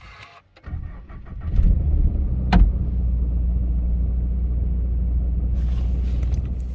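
Toyota GR86's flat-four boxer engine starting, surging up just under two seconds in and then running steadily at a deep, even level. A single sharp click sounds about two and a half seconds in.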